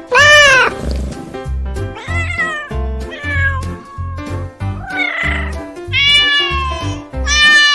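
Domestic cat meowing repeatedly, about six meows, each rising and then falling in pitch, over background music with a steady beat.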